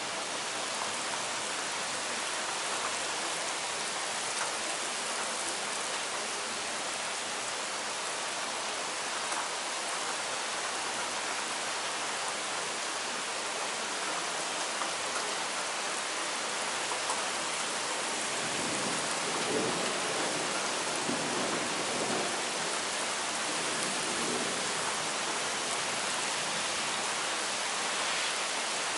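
Heavy rain falling steadily, an even downpour on pavement and trees.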